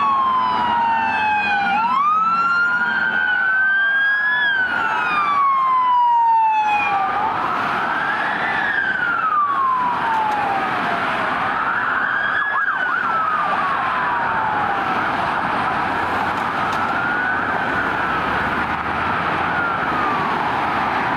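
Police car electronic wail sirens on vehicles responding code 3: several slow rising-and-falling tones overlap in the first seven seconds, then grow fainter, leaving one slow wail over traffic noise.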